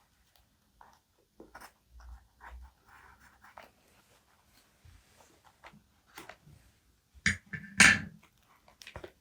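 Paper and stationery being handled: scattered soft taps and rustles, then two louder, brief knocks or rustles of paper about seven and eight seconds in.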